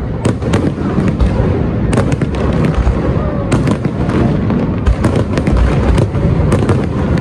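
Fireworks display: a dense, continuous rumble of shells bursting, with many sharp bangs and crackles following one another quickly.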